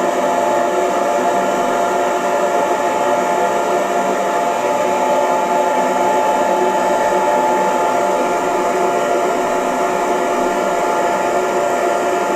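Hair dryer running steadily, a constant airy rush with a steady motor whine.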